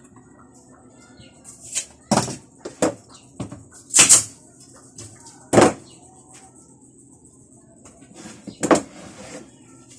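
A series of irregular sharp knocks and thuds, about seven of them, the loudest in the middle, over a steady low hum.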